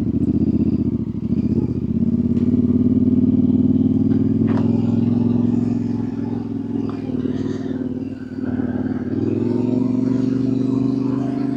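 Yamaha Ténéré 700's parallel-twin engine running steadily on a dirt trail. The engine eases off briefly about eight seconds in, then picks up again, with a few sharp clicks along the way.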